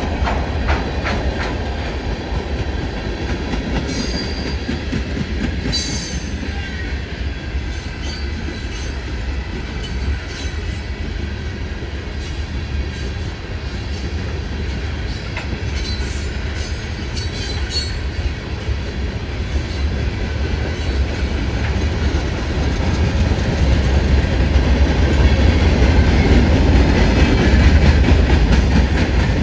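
Freight cars of a mixed manifest train rolling past, steel wheels clattering on the rails under a steady low rumble. Brief high wheel squeals come a few seconds in and again past halfway, and the rumble grows louder near the end.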